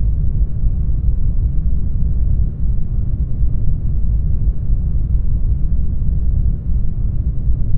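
Brown noise: a steady, deep hiss weighted toward the low end, like a soft rumble, with no change or events.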